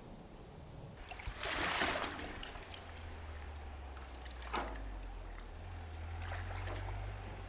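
Water splashing and sloshing, with a louder splash about a second and a half in and a short sharp knock a few seconds later, over a low rumble.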